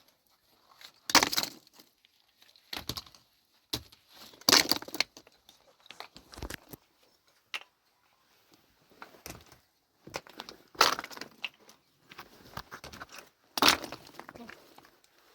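Digging in stony ground with hand tools: irregular crunching strikes and scrapes on rock and rubble, four louder blows among smaller knocks.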